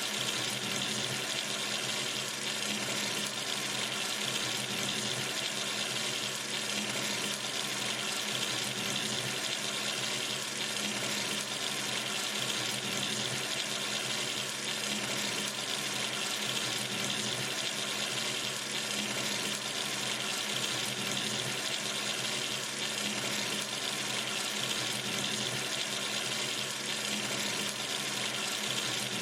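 Water running steadily from a sink tap into the basin, an even, unbroken rush.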